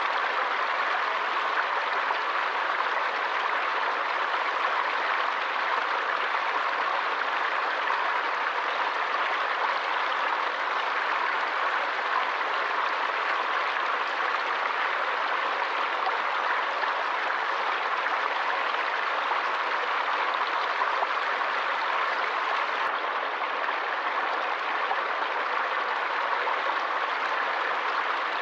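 Forest stream: water flowing and splashing over rocks in a steady, even rush.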